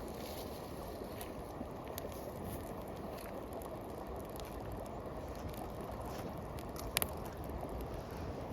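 Steady rushing of flowing river water, with scattered light clicks and one sharp snap about seven seconds in.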